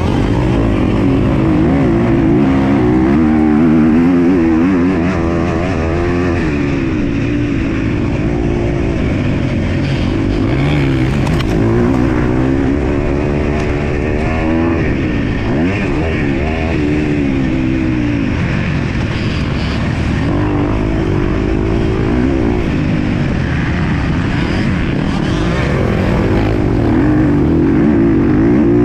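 MX2 motocross bike engine at race pace, its revs climbing and dropping again and again.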